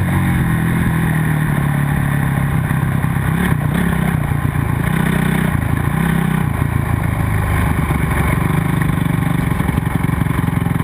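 Motocross bike engine running loud and continuously, its pitch rising and falling with the throttle in the middle of the stretch, over a steady rushing noise.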